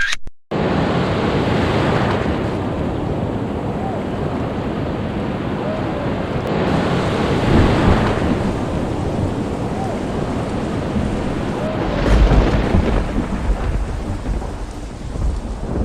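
Heavy rain pouring steadily with rushing wind, swelling and easing several times, and a deep rumble about twelve seconds in.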